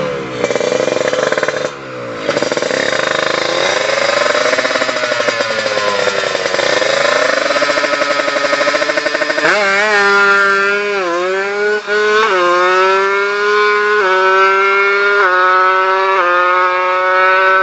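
Two-stroke Kawasaki Ninja 150 engine, tuned up to 155 cc, revving hard. In the second half its pitch climbs and then steps down several times, as in accelerating through the gears.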